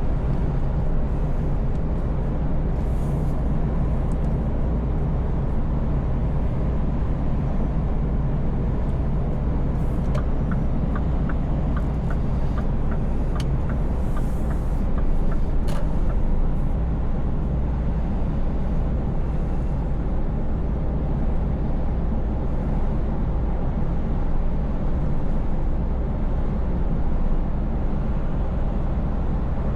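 Scania V8 truck engine running steadily at cruise with road noise. Midway, a run of regular ticks, about two a second, lasts for about five seconds.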